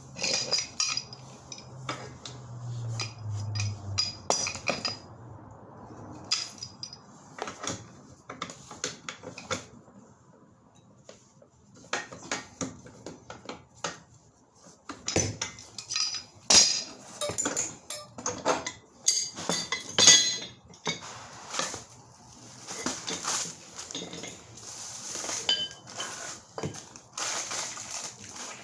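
Irregular metallic clinks and knocks of black gas pipe and its fittings being handled and knocked against each other and tools.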